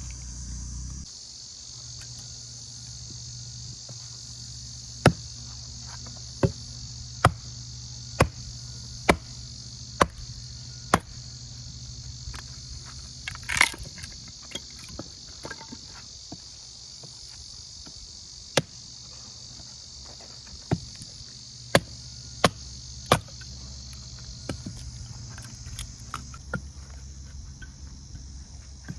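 Crickets chirring steadily. Over them come sharp single knocks: a run of seven about a second apart, then another run of four or five later on.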